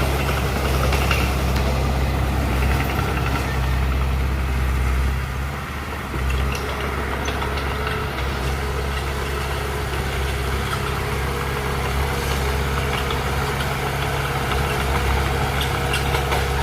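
Heavy machinery's diesel engine running steadily, dipping briefly about five seconds in before picking up again.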